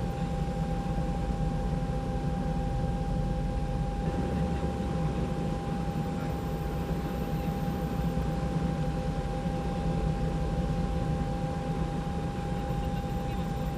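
Steady drone of a helicopter in flight, with a constant high whine over it.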